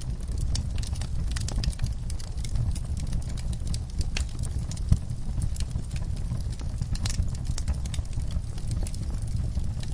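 Wood fire crackling in a fireplace: a steady low rumble of the flames under irregular small pops and snaps, with one louder pop about five seconds in.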